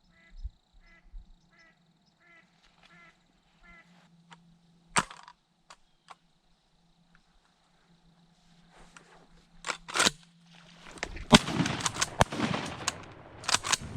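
A series of about seven soft duck quacks, then shotgun shots: one about five seconds in, two close together about ten seconds in, and more sharp reports amid a burst of noise from about eleven seconds on.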